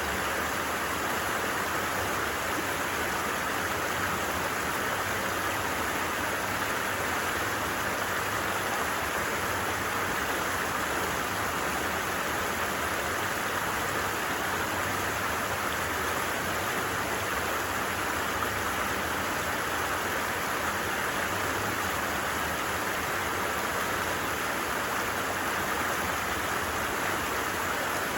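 Stream water running steadily, an even rushing babble with no change.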